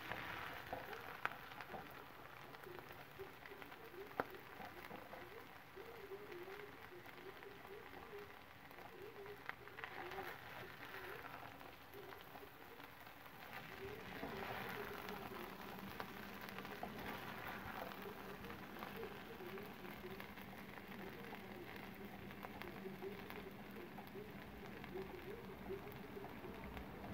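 Fried rice sizzling in a cast-iron skillet as a spatula stirs and scoops it, with two sharp taps of the spatula against the pan in the first few seconds.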